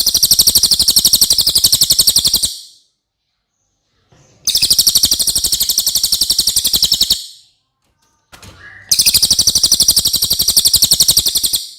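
Cililin bird singing: three long, very fast, high-pitched trills, each about two and a half seconds, separated by short pauses.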